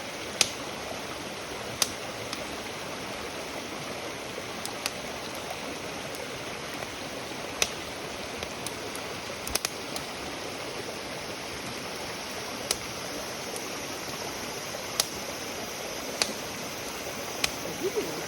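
Wood campfire burning: a steady hiss with sharp crackles and pops every second or two.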